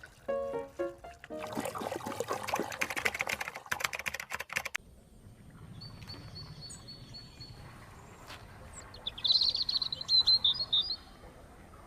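A few notes of music, then a dense crackling noise that cuts off abruptly about five seconds in. After that, quiet background ambience with a bird chirping in a quick run of high notes near the end.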